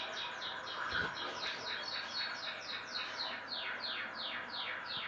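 Small cage bird chirping in a rapid run of short, downward-sliding chirps, about four a second.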